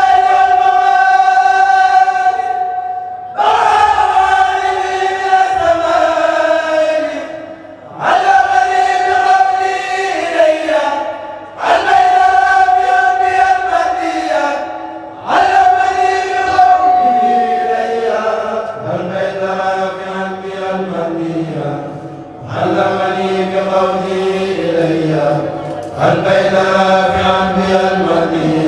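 A kourel, a Mouride group of male voices, chanting a religious khassida together in long held phrases of about four seconds each, with short breaks between them. Deeper voices come in strongly about two-thirds of the way through.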